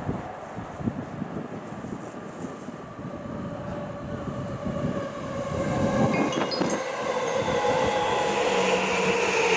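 Electric train on the line beside a station platform, growing louder from about halfway through as it comes closer, with a steady whine over the rumble.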